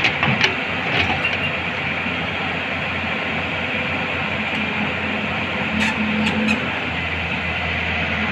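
Hyundai excavator's diesel engine running steadily, with a few sharp metallic knocks about a second in and again around six seconds in, as the track chain is worked on.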